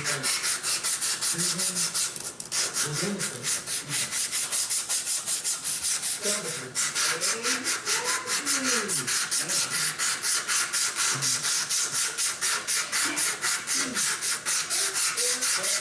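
Sandpaper rubbed by hand on the wooden forend of a Kentucky rifle stock, shaping the nose to take the nose cap, in quick, even back-and-forth strokes about five a second, with two short pauses.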